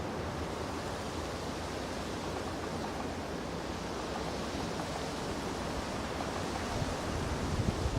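Steady rushing outdoor noise, with low rumbling gusts picking up near the end.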